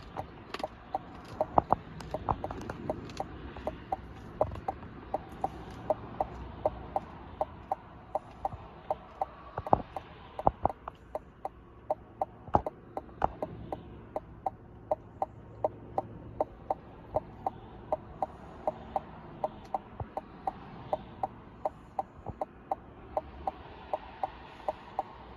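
Regular sharp ticking, about two ticks a second, over a low steady rumble.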